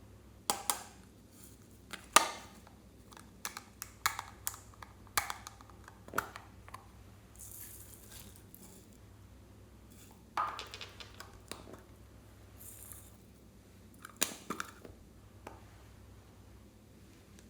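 Slime being handled and pressed, giving a string of sharp pops and clicks at irregular intervals with a couple of brief soft hissing stretches in between.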